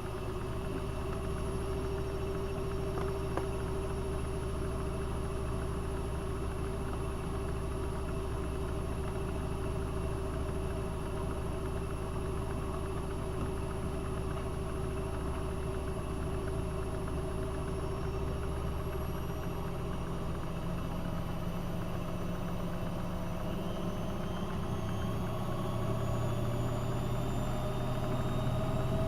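AEG Öko-Lavamat 72520 washing machine's drum motor running at a steady speed, its whine starting to rise about two-thirds of the way through as the drum speeds up.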